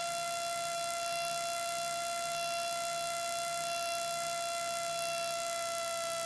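Steady high whine with a stack of overtones in the Cessna 205 Stationair's cockpit audio as it taxis, its pitch sinking very slightly, over a faint low pulsing about twice a second.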